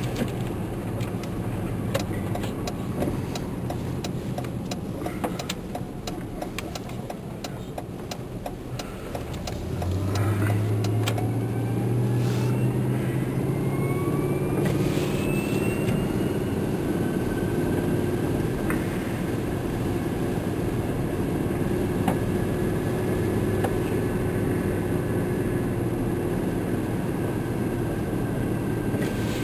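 Vehicle engine heard from inside the cab while driving in snow: a low drone with scattered clicks and knocks, then about ten seconds in the engine picks up with its pitch rising and settles into a steady drone.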